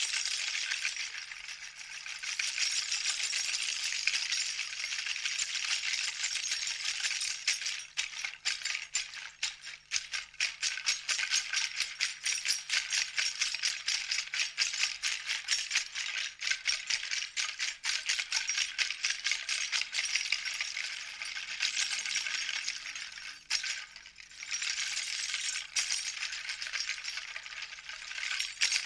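A shaken hand rattle of small hard pieces, played as a primitive percussion instrument. It makes a dense, dry clatter that turns into quick rhythmic shakes about eight seconds in, with a short break near the end.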